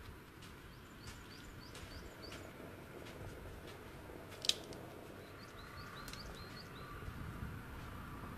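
A small bird calling: two runs of quick, high, rising chirps, with a single sharp click about halfway through, over faint outdoor background noise.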